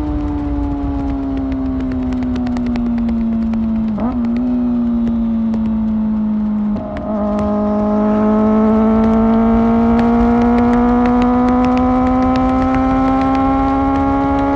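Kawasaki ZX-4R's 399 cc inline-four running through an Akrapovic exhaust, its pitch sinking as the bike rolls off. Two brief gear-change blips come about 4 and 7 seconds in, then the engine pulls steadily, its pitch slowly climbing as it gets a little louder.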